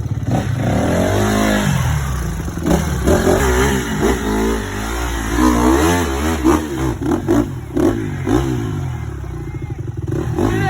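Dirt bike engine revved hard in repeated quick throttle blips, its pitch swinging up and down, with clattering knocks as the bike works over rough rocky ground.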